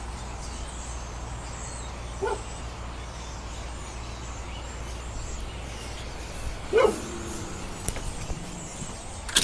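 A dog giving two short barks, a faint one about two seconds in and a louder one near seven seconds.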